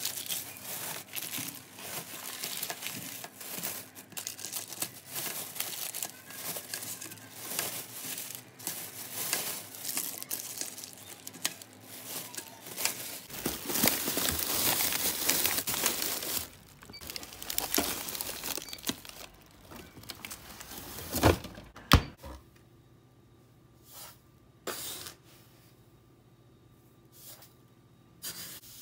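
Dense crinkling and rustling of some crinkly material being handled, for about twenty seconds, then two sharp knocks, followed by a few soft taps.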